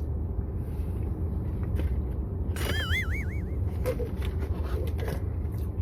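Steady low rumble of a car cabin with the engine running, with a brief warbling high-pitched squeal about halfway through.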